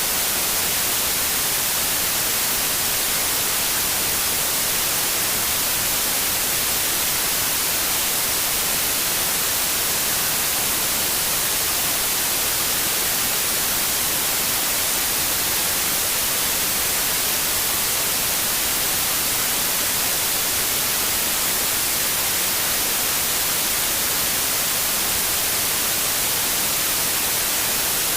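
Steady synthetic white noise, an even hiss that never changes, strongest in the high frequencies.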